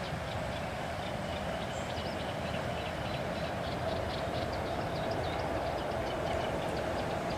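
A regional train rolling across a high steel truss railway bridge at a distance, heard as a steady drone, with short high bird chirps over it.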